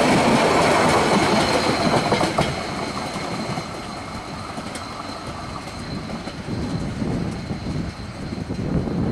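Passenger train coaches rolling away on the rails, the wheel noise loud at first and falling off after about two seconds as the train recedes. A faint, thin, high, steady squeal from the wheels on the curve runs through it.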